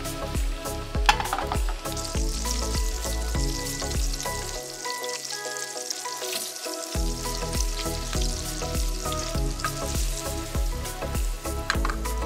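Chicken meatballs sizzling as they shallow-fry in oil in a frying pan, with a sharp click about a second in and light knocks of tongs turning them. Soft background music plays underneath.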